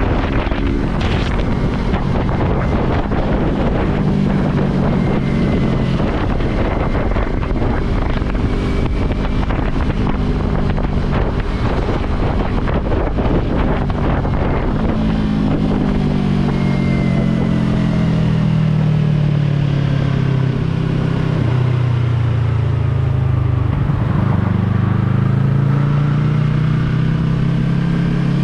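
Yamaha R3 parallel-twin engine running under way, its pitch falling for several seconds past the middle as it slows, then climbing again as it accelerates near the end. Wind noise on the microphone runs underneath.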